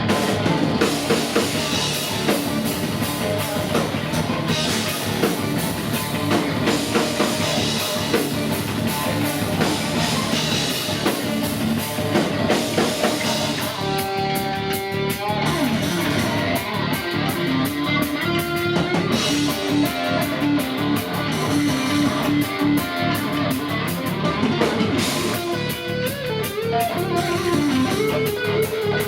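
Live heavy metal band playing an instrumental passage: distorted electric guitars with melodic lead lines over a pounding drum kit.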